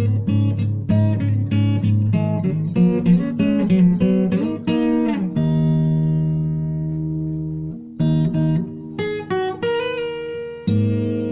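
Acoustic guitar playing an instrumental tune of single plucked notes, several a second. About halfway through, a chord is left ringing for a couple of seconds, then a short run of higher notes follows, and a low note rings out near the end.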